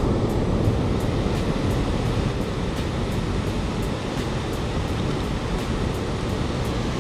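Steady roar of rushing river water at the Great Falls of the Potomac.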